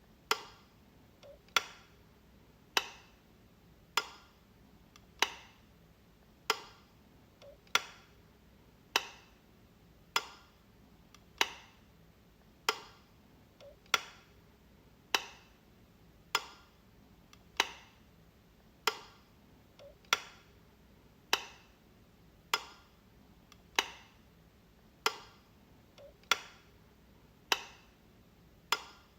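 Light switch clicking, one sharp click about every 1.2 seconds in a steady repeating loop, with a fainter click now and then close behind one of them.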